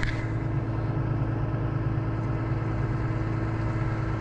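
Tractor engine idling steadily, with a brief click right at the start.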